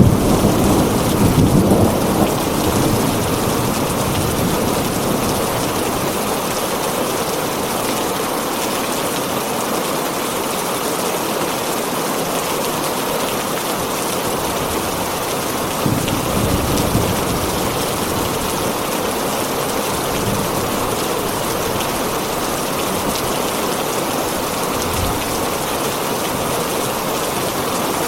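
Heavy rain falling steadily on a tin roof, with a rumble of thunder dying away over the first few seconds and another brief rumble about halfway through.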